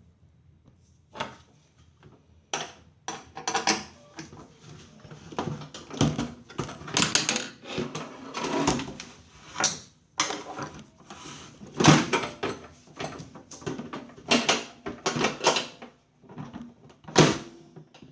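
Irregular knocks, clicks and scraping, like parts being handled and worked on by hand.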